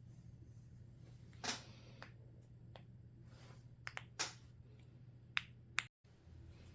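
Sharpie Creative Marker brush tips on paper: a short scratchy stroke about 1.5 s in, a few quick taps and a short stroke around 4 s, then two sharp ticks a little before 6 s, over a faint steady hum.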